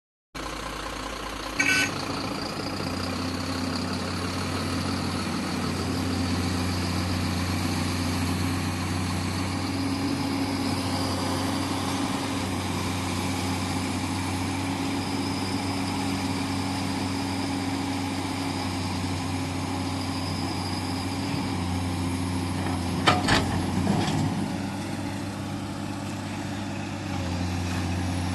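BharatBenz truck's diesel engine running steadily with an even low hum. A short sharp sound comes just under two seconds in, and a few louder sharp sounds come together about 23 seconds in.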